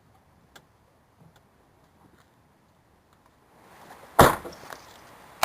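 Near quiet with a few faint ticks, then a single loud thump about four seconds in.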